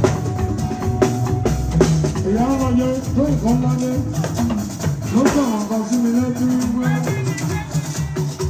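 Live party band music: drums and shakers keep up a busy rhythm under a melody line that glides up and down.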